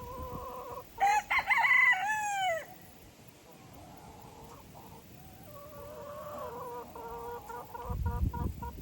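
A rooster crows once, loudly, about a second in, followed by softer clucking calls from the chickens, with a low rumble near the end.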